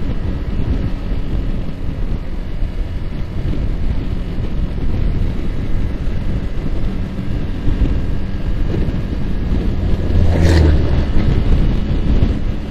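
Yamaha R15's single-cylinder engine running steadily at cruising speed, under heavy wind rush on the microphone. A brief louder burst of noise comes about ten seconds in.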